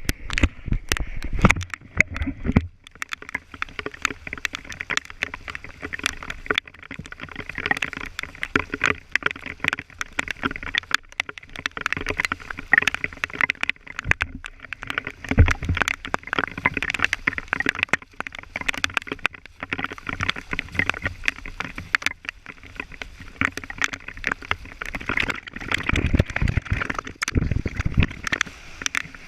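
Heavy downpour: a dense crackle of raindrops pelting down, with a few low rumbling bursts near the start, in the middle and near the end.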